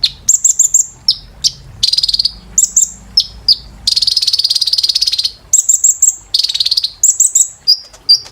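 Kolibri ninja, a sunbird, singing a fast, high-pitched song of sharp chirps and rapid trills, including a longer buzzing trill about four seconds in.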